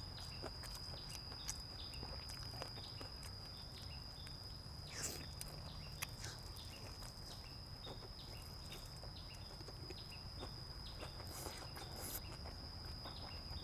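Chewing food close to the microphone, with many short, irregular mouth clicks and smacks and one louder one about five seconds in. Behind it a steady high-pitched whine and a low hum run on.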